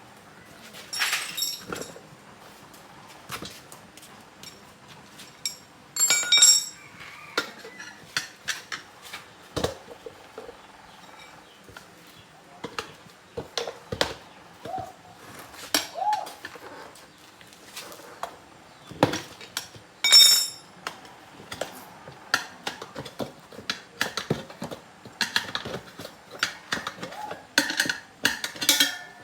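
Metal tyre tools clinking and knocking against a motorbike wheel as the tyre is pried off the rim, in irregular clanks, two of them louder with a brief metallic ring.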